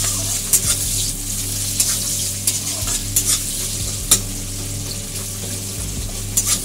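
Sliced onions sizzling in hot mustard oil in an aluminium kadai, stirred with a metal spatula. The spatula scrapes and clicks against the pan every so often, most sharply about four seconds in.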